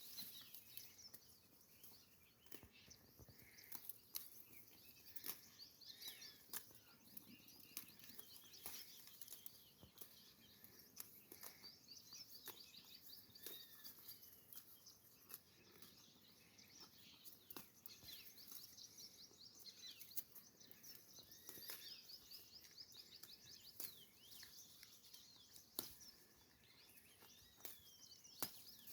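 Faint outdoor birdsong: many small birds chirping throughout in short, quick calls, with scattered light clicks.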